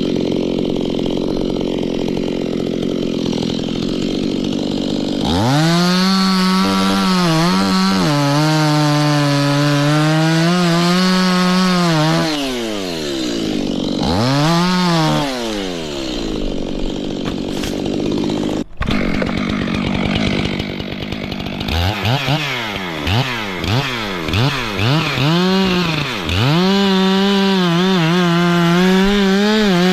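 Two-stroke chainsaw working. For about five seconds it runs with a rougher, lower sound. It then holds a high, steady engine note, with a couple of drops and rises in pitch and a brief cut-out near the middle. A quick series of throttle blips follows, then it goes back to a steady high note.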